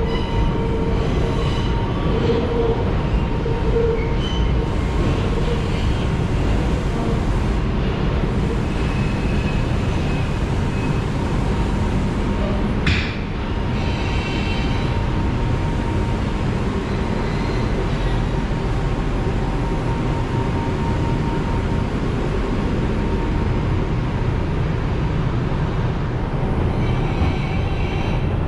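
Steady rumble and rattle of an R142 subway car running on the rails, with faint thin high tones from the wheels above it. A single sharp clank about halfway through.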